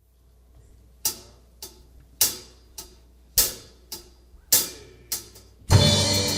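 A drummer's count-in: eight sharp clicks, alternately loud and soft, about two a second, before the song starts. Near the end the full band comes in with drums, bass and keys.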